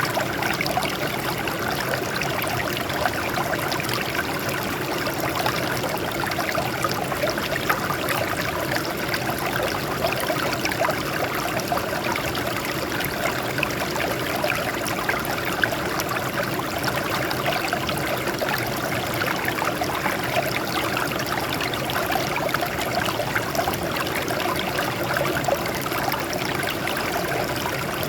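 Water flowing and trickling over rocks: a steady, dense splashing with no change.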